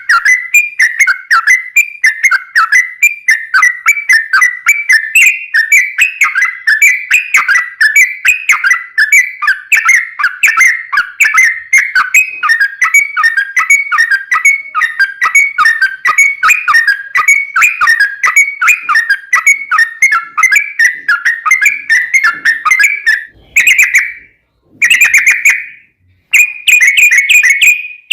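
Yellow-vented bulbul (trucukan) singing a long, rapid rolling run of bubbly whistled notes without a break, then stopping twice briefly near the end between short bursts.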